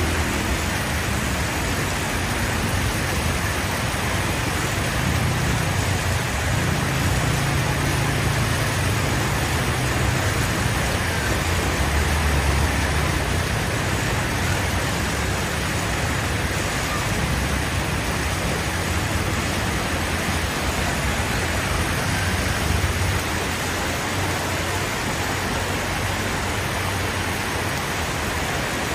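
Steady street traffic noise with a constant hiss, and a motor vehicle's engine growing louder as it passes between about five and fourteen seconds in.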